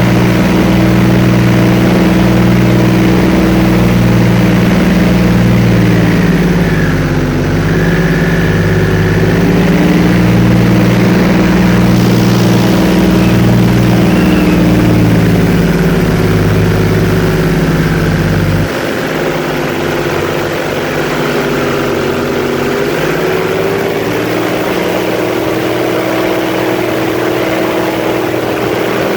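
An airboat's engine and big air propeller running steadily at cruising speed. The pitch dips briefly and recovers early on, and about two-thirds of the way in the deep rumble drops away suddenly and the sound gets a little quieter.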